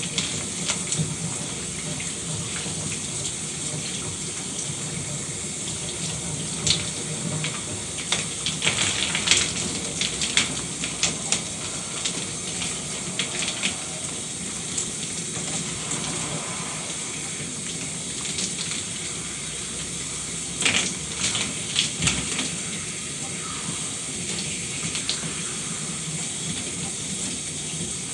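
Shower water running steadily, with irregular louder splashes and spatters now and then, thickest a third of the way in and again about two-thirds of the way through.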